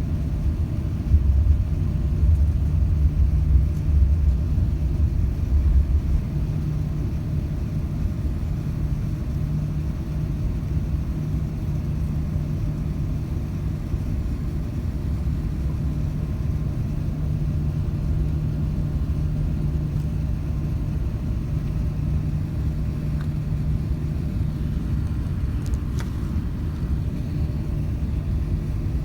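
Cabin noise inside an Airbus A380: a steady low rumble with a constant hum, heavier and bumpier for the first few seconds, then even.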